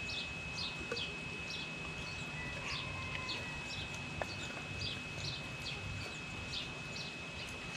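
Birds calling in short, falling, high chirps about two a second, over a steady high-pitched whine, with a couple of faint knocks.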